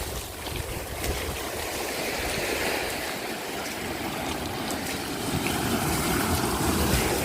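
Shallow seawater washing and rushing steadily over a sandbar.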